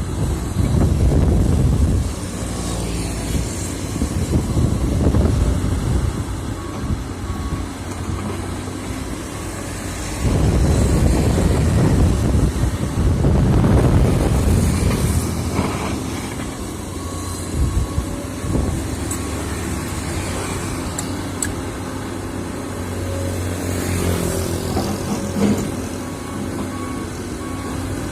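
Diesel engines of heavy construction machinery running steadily, with wind buffeting the microphone in gusts, strongest in the first two seconds and again around the middle.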